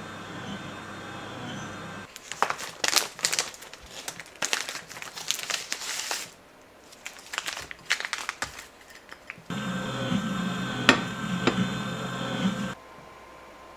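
Crinkling and rustling, as of something crinkly being handled, in a string of irregular bursts through the middle. Later, a steady hum with a couple of sharp clicks.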